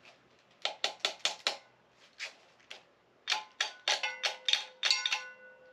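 Light hammer taps on a jammed connecting-rod cap of a small-block Chevy 350 being worked loose: a quick run of about five taps, two single taps, then a faster run of about ten near the end that leave the metal ringing.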